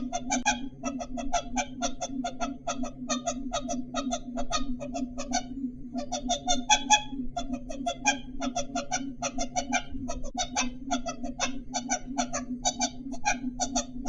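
Rapid bird-like calls repeated evenly, about five a second, with a short break about six seconds in, over a steady low hum.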